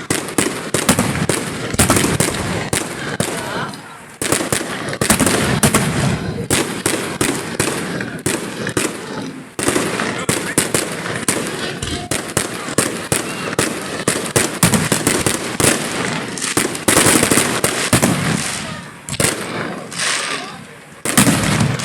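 Fireworks display going off in rapid succession: dense bangs and crackling bursts, with short lulls about four seconds in, near ten seconds, and shortly before the end.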